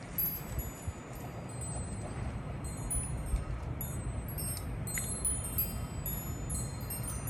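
Metal wind chime tinkling in the wind: many short, high ringing notes struck irregularly, growing busier about halfway through, over a steady low wind noise.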